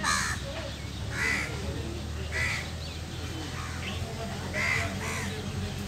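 A bird calling in short, separate calls, about five in a few seconds, over a low, steady rumble.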